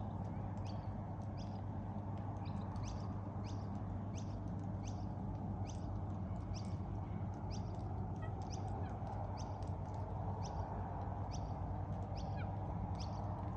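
Small birds calling from a lamppost: repeated short, high calls, each dropping quickly in pitch, about two a second, over a steady low rumble.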